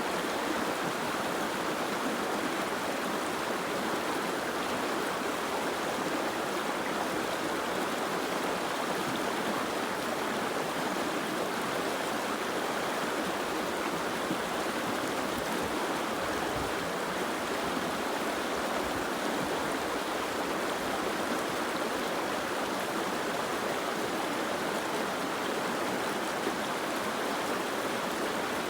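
Soft rain falling steadily, an even, unbroken hiss of water.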